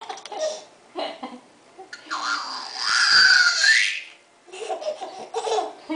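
High-pitched vocal squealing and laughter: short bursts of laughing, then a loud squeal held for about two seconds, then more short laughs near the end.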